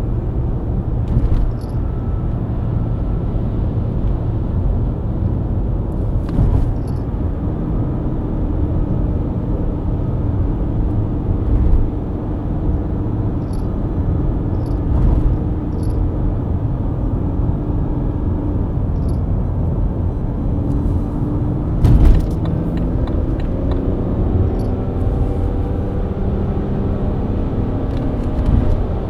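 BMW E90 323i's inline-six engine running under steady cruise with continuous tyre and road rumble. The engine pitch rises over the last few seconds as the car accelerates. A few short thumps break in, the loudest a little past two-thirds of the way through.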